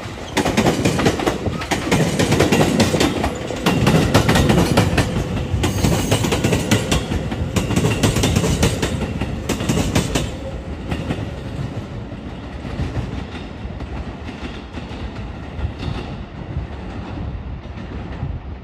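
A train passing close by, its wheels clacking over the rail joints. The sound is loudest over the first ten seconds, then fades away as the train moves off.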